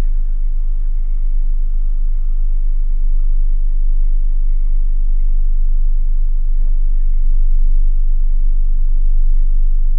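Steady low rumble of a car's engine heard from inside the cabin, with the car standing still or barely moving.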